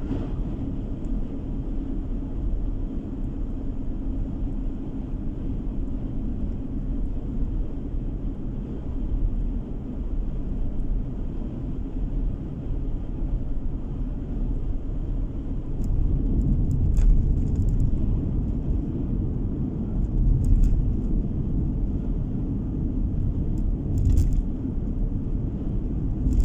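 Car driving on the open road, heard from inside the cabin: a steady low rumble of tyres and engine, with a few short knocks from bumps in the road in the second half.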